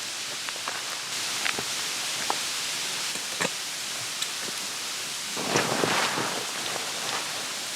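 Steady outdoor hiss with scattered small ticks, and a short spell of rustling about five and a half seconds in.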